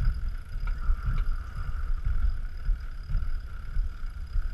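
Wind buffeting the microphone of an action camera on a sailboat under way, an uneven gusty low rumble, with a faint steady high tone.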